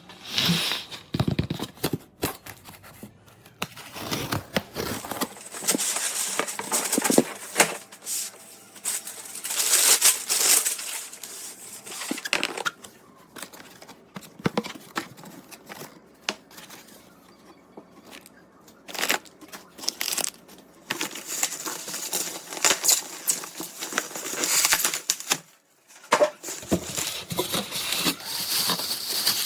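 Packaging being torn and crinkled in irregular bursts of tearing and rustling, with scattered knocks and clicks.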